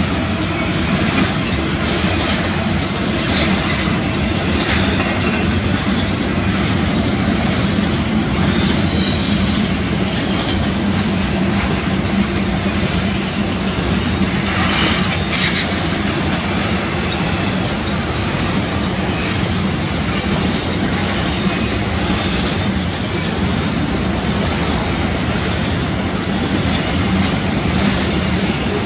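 Freight cars rolling past close by: a steady rumble of steel wheels on rail with the clickety-clack of wheels over rail joints, and brief high-pitched patches about halfway through.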